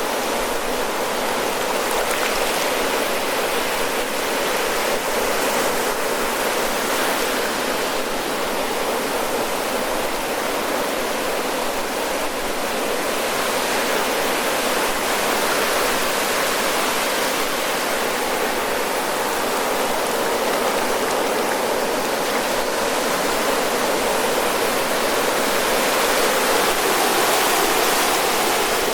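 Ocean surf breaking and washing up the shore in a steady, continuous rush, swelling slightly near the end.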